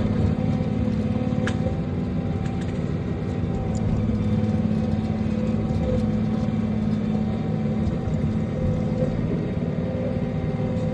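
Diesel engine of a Timberjack tree processor running steadily at constant speed, with a single click about a second and a half in.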